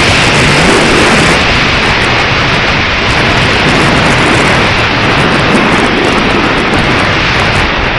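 Strong wind buffeting the microphone: a loud, steady rumble and hiss that swells and eases with the gusts.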